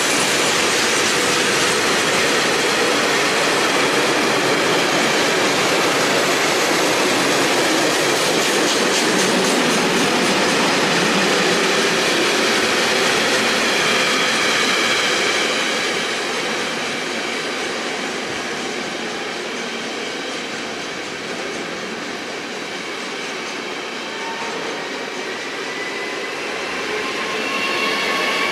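Freight train of rail tank wagons rolling past at speed, wheels clattering over the rail joints, with the noise dropping off about halfway through. Near the end an ED250 Pendolino electric multiple unit comes by with a rising electric whine.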